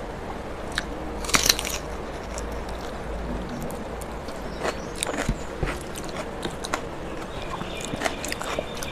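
Close-miked mouth sounds of eating soft rice mixed with sour dal by hand: chewing with wet clicks and smacks. The loudest is a burst of clicks about a second and a half in. Fingers squish the rice against the steel plate.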